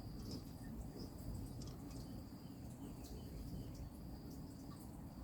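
Insects trilling steadily at a high pitch, with faint short chips or ticks scattered through, over a soft low rumble.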